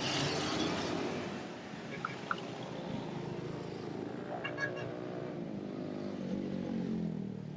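Vehicle riding along a highway: a steady rush of road and wind noise with a faint engine hum that slides in pitch.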